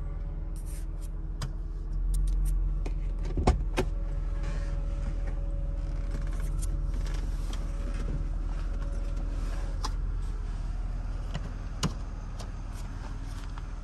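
BMW Z3 2.3's straight-six engine idling steadily, heard from inside the cabin, with scattered clicks and one sharp knock about three and a half seconds in.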